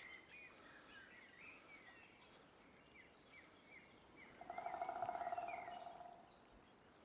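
Forest birdsong: many short, high chirps repeated quickly. About four and a half seconds in, a louder, fast rattling trill runs for nearly two seconds and then stops.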